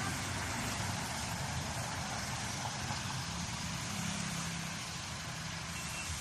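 Truck engine running steadily at low revs. Near the end a truck's reversing beeper starts with one high beep.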